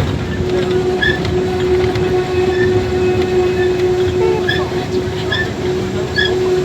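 A train running on rails: a dense low rumble with a steady hum, and short high squeaks repeating just under once a second.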